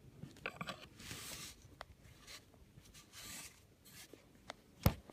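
Soft scraping and rubbing with a few light clicks, and a single sharp knock near the end.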